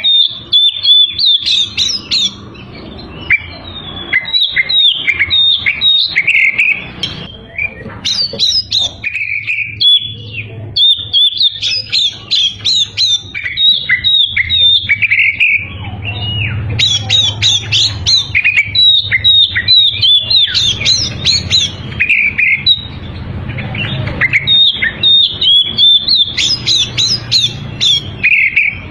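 Oriental magpie-robin (kacer) singing vigorously, in quick, varied phrases of whistled notes with brief pauses between them.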